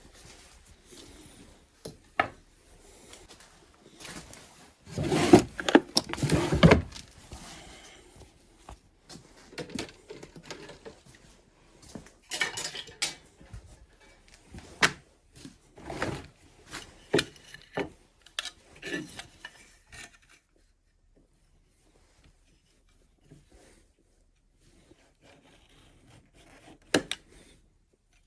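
Hand work with tools and an axe on a workbench: irregular knocks, clatters and scraping rubs, loudest in a dense run of scraping about five to seven seconds in, then scattered knocks that thin out to near quiet after about twenty seconds, with a couple of sharp knocks near the end.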